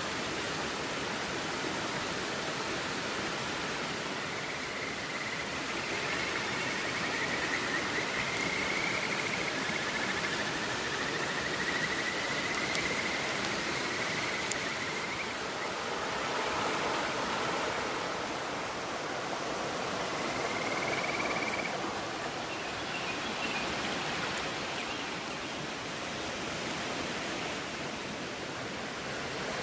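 Steady rush of a flowing river. A faint, wavering high whistle comes through it twice, once at length in the first half and once briefly after the middle.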